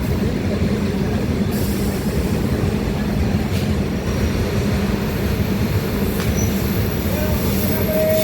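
Indian Railways train running on the track: a loud, steady rumble of wheels and carriages.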